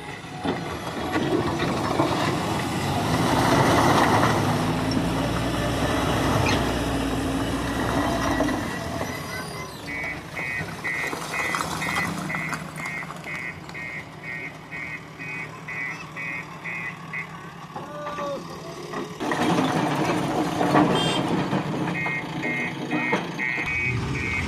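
Heavy diesel machinery running, with a reversing alarm beeping about twice a second for several seconds in the middle and again near the end.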